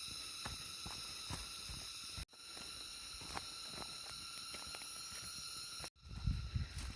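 Steady high-pitched drone of several held tones, with soft footsteps on the trail. The sound cuts out abruptly twice, and near the end louder rustling and knocking start.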